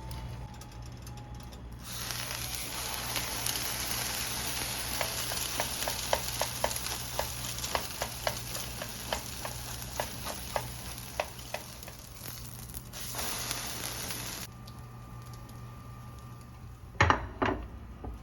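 Food sizzling as it fries in hot fat in a pan, a dense hiss with many small pops, stopping suddenly. Near the end come two loud sharp knocks.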